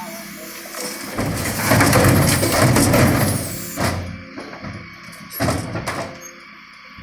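Dennis Eagle Olympus refuse truck working its bin lifters: a loud, noisy stretch of machinery and tipping waste lasting about two and a half seconds over the running engine, then a few sharp knocks and bangs of bins and lifter.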